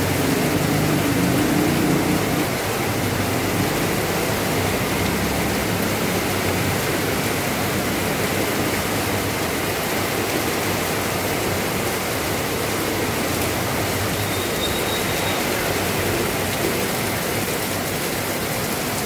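Steady heavy rain falling, an even hiss. A low hum sits under the rain at first and stops about two and a half seconds in.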